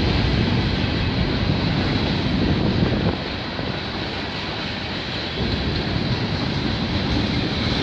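Freight train cars rolling past close by: a steady rolling noise of steel wheels on rail. It drops somewhat quieter for about two seconds midway, then picks up again.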